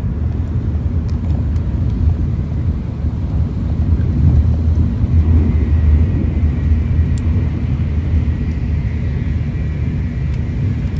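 Steady low rumble of a Shinkansen high-speed train running, heard inside the passenger cabin.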